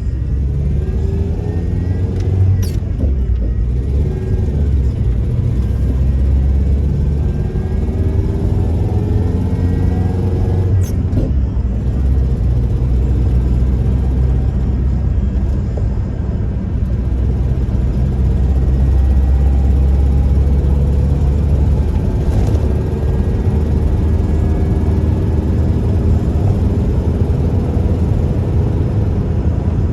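A 1998 Toyota Tacoma pickup being driven: a steady low engine and road rumble, with the engine note rising and falling several times as the truck accelerates and eases off. Two sharp clicks come through, one about three seconds in and one about eleven seconds in.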